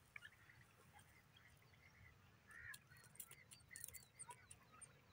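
Faint, scattered short bird chirps, thickest about midway through, with light scratchy clicks of dry soil as a grey francolin dust-bathes, over a low rumble.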